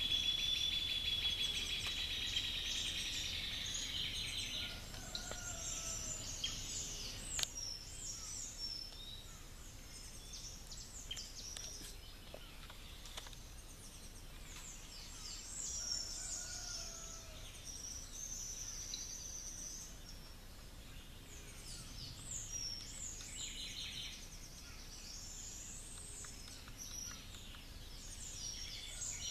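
Dawn chorus of several wild birds singing together: a long, fast trill for about the first four seconds, then many overlapping chirps and whistles. A few soft, lower gliding whistles and another burst of trilling come near the end.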